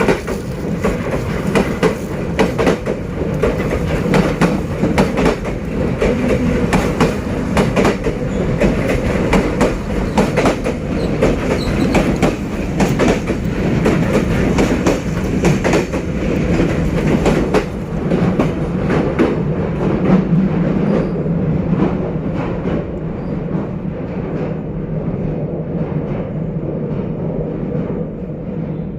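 Passenger train hauled by a D19E diesel-electric locomotive running along the line: the diesel engine's steady drone with wheels clicking over rail joints. The sharper clicking thins out after about twenty seconds while the rumble goes on.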